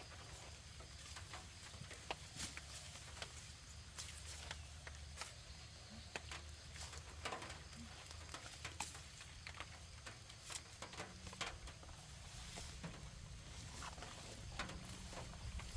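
Grass being cut by hand with a sickle: irregular crackling and snipping clicks as stems are cut and gathered, over a low steady rumble.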